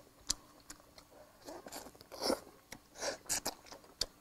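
Chewing and biting into meat eaten by hand, with small crunches and clicks at uneven intervals.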